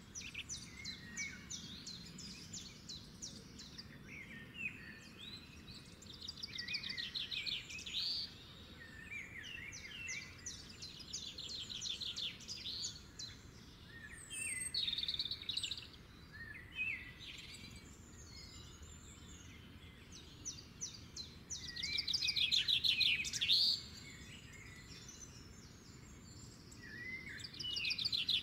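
Birds singing: many short chirps and fast trills overlapping, with louder bursts of song around the middle and near the end.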